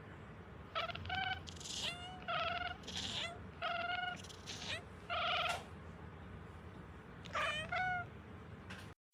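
A cat meowing repeatedly in short, high-pitched meows, about a dozen in quick succession with a pause near the end.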